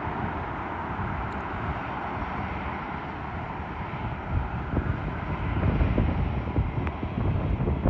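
Jet airliner on landing approach, its engine noise steady and fading away over the first few seconds. From about halfway through, gusts of wind buffet the microphone.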